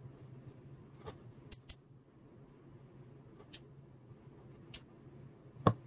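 Light, scattered clicks and ticks of small parts and tools being handled over a steady low hum, with one sharper knock near the end.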